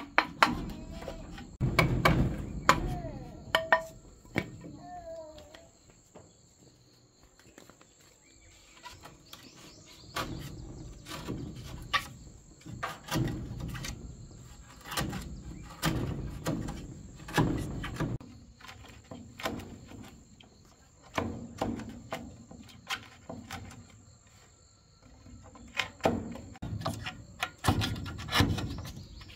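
Irregular knocks and thuds from manual work, coming in clusters of one to three a second with short pauses, over a steady high chirring of crickets.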